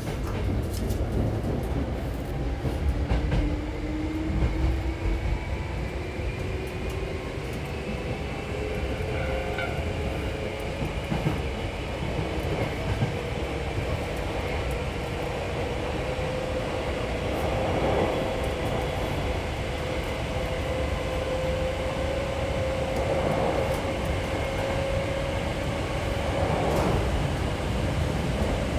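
Hankyu 6300-series electric train running, heard from inside the car: a steady low rumble of wheels on rail, with a thin motor whine that rises slowly and steadily in pitch. A few short louder rattles come in the last third.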